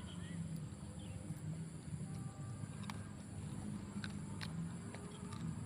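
Close-up eating: chewing and crunching of cooked small birds' meat and bones, with a few sharp clicks of bone cracking.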